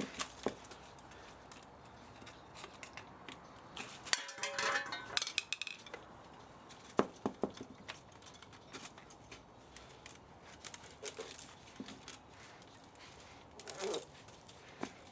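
Scattered metallic clinks and scrapes of hand tools on the parts of an old spa motor being dismantled, with a busier spell of rattling about four seconds in and a sharp clink about seven seconds in.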